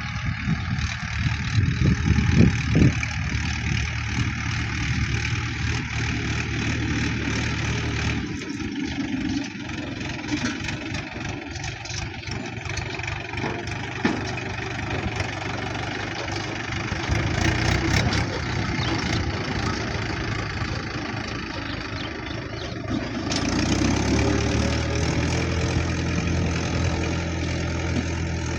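Tractor engine running steadily, its note changing about eight seconds in and settling to a steady run again near the end.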